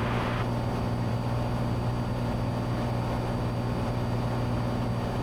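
Cessna 182T's six-cylinder Lycoming engine and propeller droning steadily in cruise, heard from inside the cockpit as a low, even hum; a higher hiss drops away less than half a second in.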